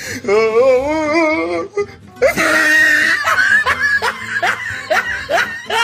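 Comic sound-effect music: a warbling, wavering tone for about a second and a half, then from about two seconds in a bright passage of repeated laughing with short rising whoops about twice a second.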